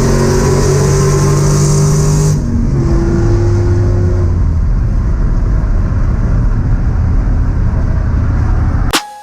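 Loud, steady engine running from race vehicles, with a high hiss over it that cuts off abruptly a little over two seconds in, where the engine tones change.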